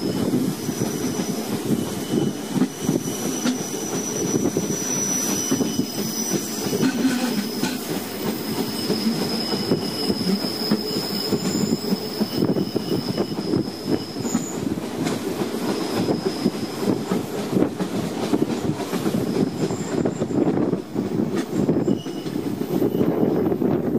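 A Rhaetian Railway train on the Bernina line running over the track with a continuous rumble and clatter of the wheels. High-pitched wheel squeal comes and goes, the sound of the wheel flanges on the tight curve of the spiral.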